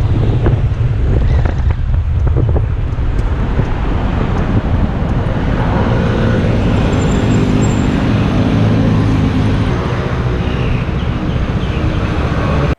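Wind buffeting the microphone while riding a Vespa LT125 scooter, with its engine running underneath. The engine note comes through more clearly for a few seconds in the middle.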